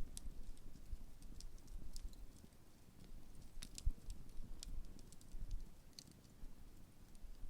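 Large wood campfire crackling, with scattered sharp pops at irregular intervals over a steady low rumble.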